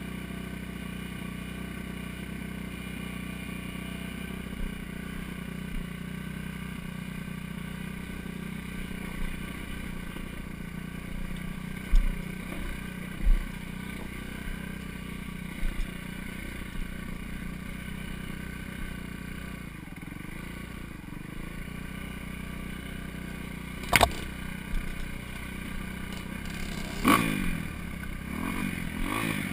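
Four-stroke dirt bike engine running steadily at low revs on a trail, with a few low thumps and a sharp knock from the bike bouncing over the ground. Near the end the engine revs up and down.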